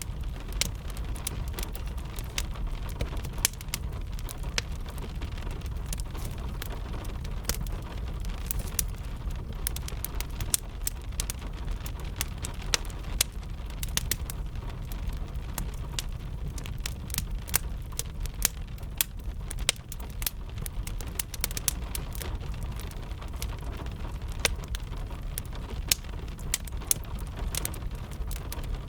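Wood fire crackling with many sharp, irregular pops over a steady wash of rain and a low rumble.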